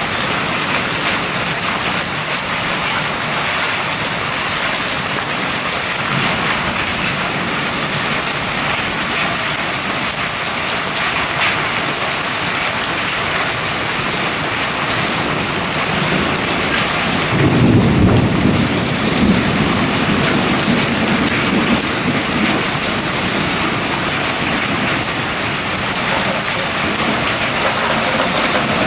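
Heavy rain falling steadily, with a roll of thunder about two-thirds of the way through that rumbles and fades over several seconds.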